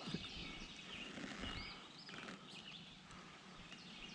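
Faint birdsong: short whistled notes that rise and fall, repeated several times, over a low steady hiss.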